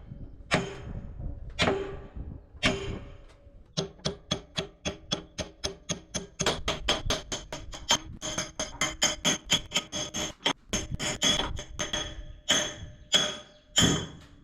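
Hammer blows on a steel pivot pin of an excavator's hydraulic cylinder, ringing metallically as the pin is driven out. A few slow strikes about a second apart, then a rapid run of about three to four blows a second from about four seconds in, stopping near the end.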